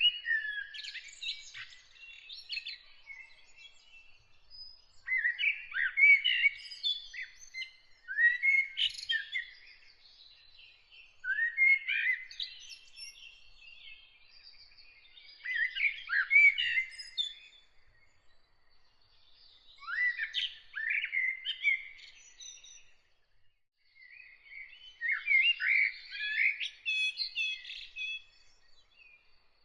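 A songbird singing in short varied phrases, about seven of them, each two to three seconds long and separated by pauses of a few seconds, with fainter high calls of other birds in the background.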